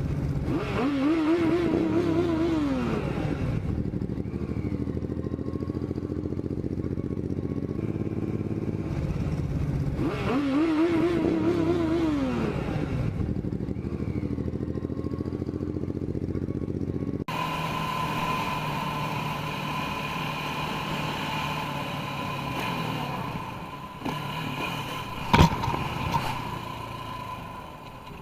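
Motorcycle engine accelerating on the road, its revs rising and then falling twice. After an abrupt cut comes a steadier engine and road noise with a level whine, broken by one sharp knock near the end.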